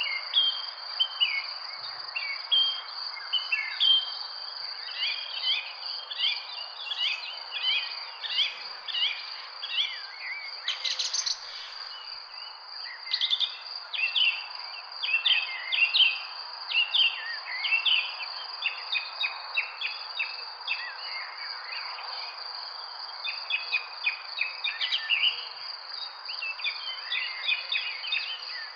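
Many birds chirping in quick, short calls, thick and overlapping, over a continuous high-pitched tone and a steady background hiss.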